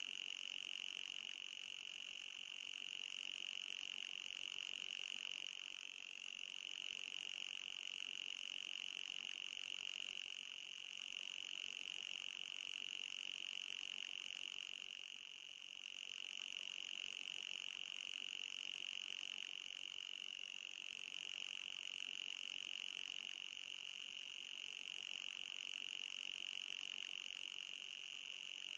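Anti-mosquito repeller sound effect: a continuous high-pitched buzzing tone with a fainter overtone above it, dipping slightly about every five seconds.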